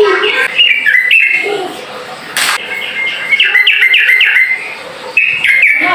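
Yellow-vented bulbul (trucukan) singing its rapid-fire chattering song: quick runs of short, bubbly notes in three bouts, with a short pause between them.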